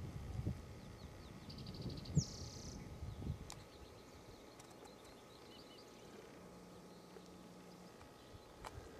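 Faint calls of small birds: a quick run of high ticks and a buzzy down-slurred call about two seconds in, then a few soft high chirps. Low thumps and rumble in the first few seconds.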